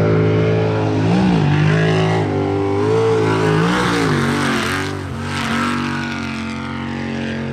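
Sprint boat engine running loud, its pitch rising and dipping in quick revs several times between steadier stretches.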